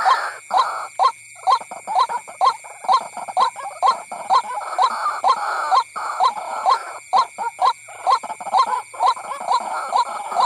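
White-breasted waterhen calls: a fast, rhythmic run of harsh repeated notes, about two to three a second, played as a lure call to draw the birds in.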